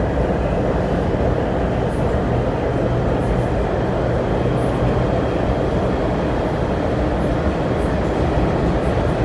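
Steady rumble inside the cabin of an MTR Tuen Ma Line C-Train, a CRRC Changchun electric multiple unit, running between stations. A faint steady hum sits underneath.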